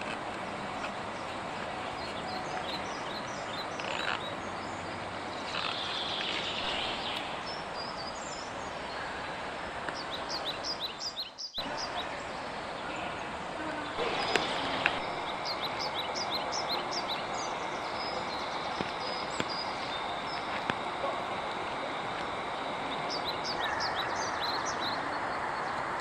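Woodland ambience: small birds singing in quick, repeated high chirps over a steady rushing background. The sound drops out for a moment a little before halfway, at an edit.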